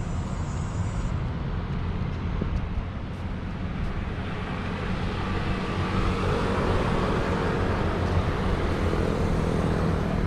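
Road traffic noise: a steady low rumble of motor vehicles, swelling in the second half as a vehicle comes closer.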